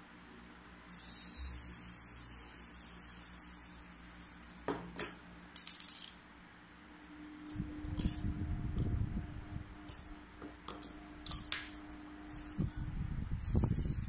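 Handling noise from taking apart a small portable speaker: sharp clicks and taps of small parts, with a stretch of low rumbling in the second half.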